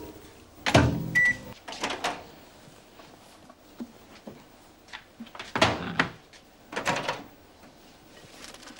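Microwave oven handled: a clunk as the door shuts, then a short beep about a second in. Several more clunks and knocks follow.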